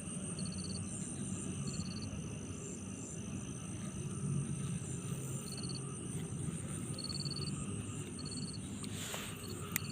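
Insects calling: short high chirps repeating about once a second over a steady high buzz, with a steady low rush of flowing ditch water beneath. A single sharp click just before the end.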